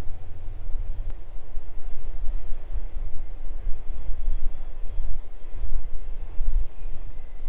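Freight train passing, a deep, steady rumble, with a faint click about a second in.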